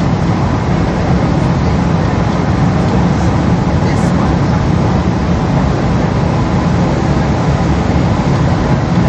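Steady cabin noise inside a Boeing 777: a loud, even rumble of engines and airflow with a low hum.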